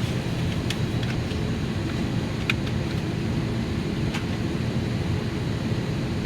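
Steady low rumble of an Airbus A321's cabin on the ground, the hum of its air and engine systems, with a few faint clicks scattered through it.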